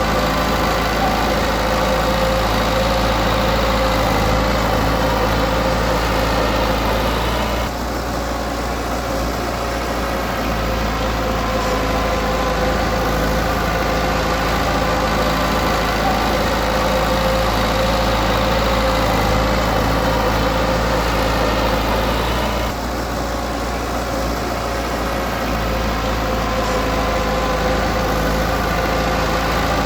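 Heavy diesel engine of earthmoving equipment running steadily, dipping slightly in level twice, about 8 and 23 seconds in.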